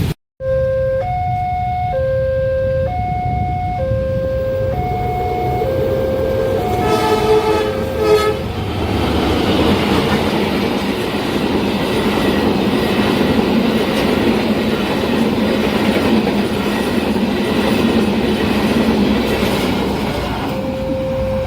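A level-crossing warning signal alternates between two tones, and a train horn sounds two short blasts about seven and eight seconds in. A train then passes with the steady noise of its wheels on the rails, and the two-tone crossing signal comes through again near the end.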